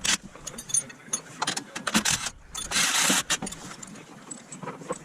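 Workshop tool noise on metal: irregular clicks and clanks, with a short burst of rushing, hissy noise about three seconds in.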